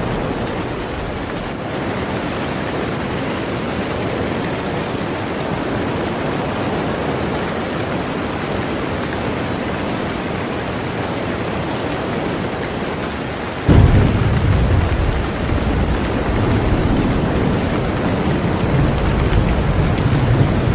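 Heavy rain falling steadily on a boat. About fourteen seconds in, a deep rumble of thunder breaks in suddenly and keeps rolling to the end.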